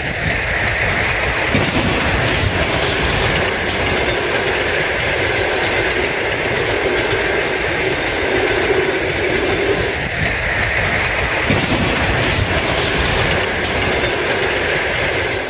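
A train passing close by at speed: a loud, steady rushing noise with the clatter of its wheels over the rail joints.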